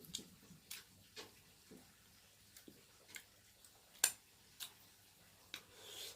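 A series of light, irregular clicks and taps, roughly two a second, with one sharper click about four seconds in.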